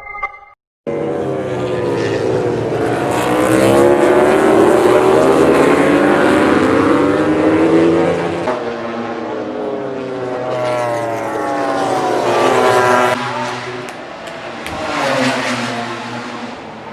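Racing motorcycle engines at high revs, their pitch climbing and dropping repeatedly as the bikes shift gears and pass. The sound breaks off abruptly a few times.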